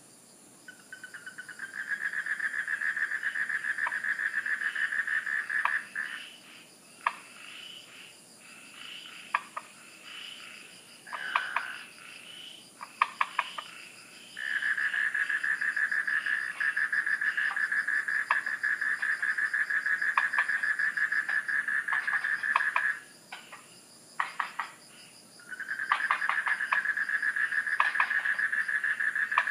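A frog calling in long, rapid pulsing trills of several seconds each, three times, with scattered short clicks in the pauses between. A steady high-pitched drone of night insects runs underneath.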